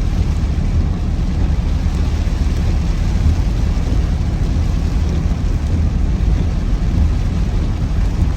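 Car driving in heavy rain: a steady low rumble of engine and road under an even hiss of rain and water.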